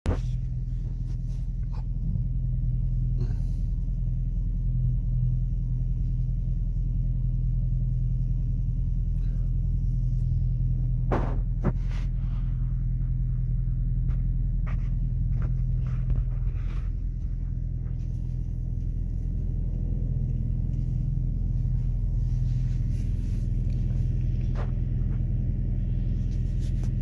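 Steady low rumble and hum of a running vehicle engine, with a few faint clicks and knocks, the clearest about eleven seconds in.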